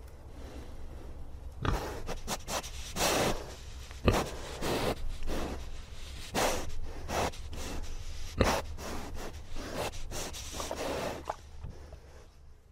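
A horse snorting and blowing air through its nostrils in a series of short noisy breaths, with a few sharp knocks between them and a steady low rumble underneath.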